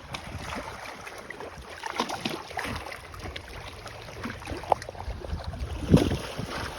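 Low outdoor wind noise with scattered light rustles and clicks, and a few brief knocks.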